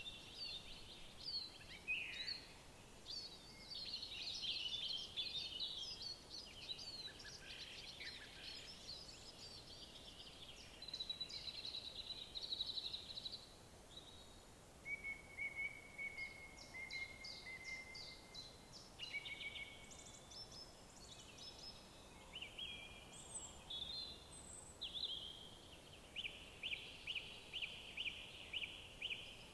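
Several songbirds singing and calling at once: quick chirps, trills and short whistled notes over a faint steady background hiss. Near the end one bird repeats a single note rapidly, about three or four times a second.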